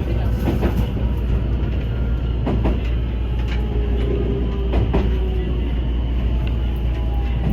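Electric train running on rails: a steady low rumble with occasional sharp wheel clacks over rail joints, and a faint motor whine slowly falling in pitch.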